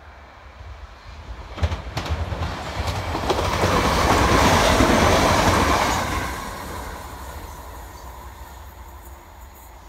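ScotRail multi-car passenger train passing at speed: the rumble of wheels on rails rises, with a couple of sharp clicks as it nears, peaks as the coaches go by close, then fades as it moves away.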